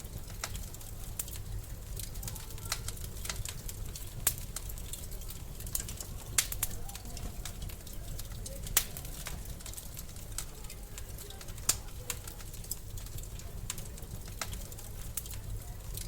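Wood fire in a fireplace crackling: many small sharp pops, with a handful of louder snaps standing out, over a low steady rumble.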